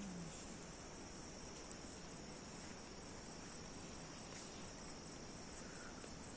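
Crickets chirring steadily in a continuous high-pitched drone.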